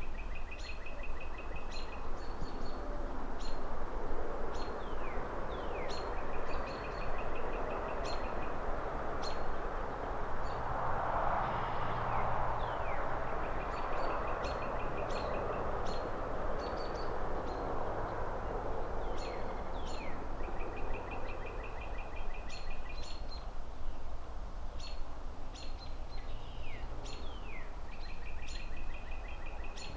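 A steady wash of distant city traffic and rustling trees, swelling once near the middle as a car passes, under birds chirping with short quick trills that repeat every few seconds.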